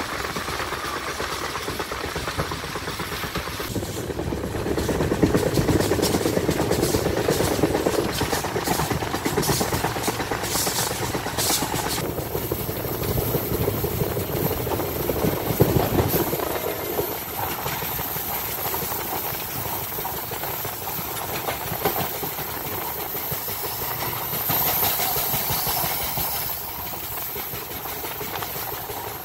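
Express passenger train running at speed, heard from on board: a steady rush of wheels on rail and air. It is louder for several seconds a few seconds in, with a few clicks, and a faint high whine joins about halfway through.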